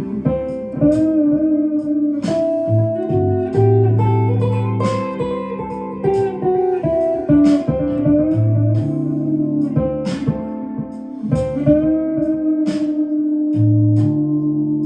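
Clean-tone electric guitar improvising a lead line in A minor, with bent notes, over a backing track with a steady bass and regular percussive hits.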